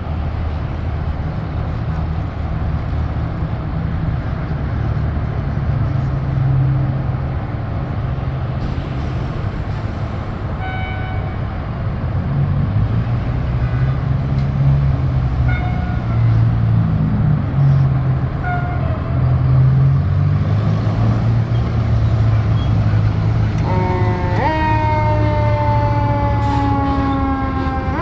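Fire engine's truck engine rumbling steadily, with a few short pitched blips from its warning horn or siren in the middle. Near the end its siren starts sweeping up and down, the sign of an emergency run.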